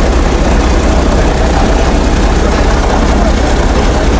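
DC-3's radial piston engines and propellers running steadily, heard from inside the cockpit.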